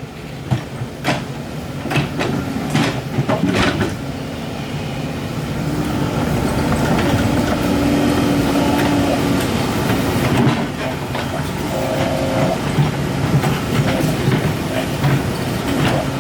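An excavator working: its engine runs steadily, with a string of sharp knocks and clanks in the first few seconds and then a held whine that comes and goes.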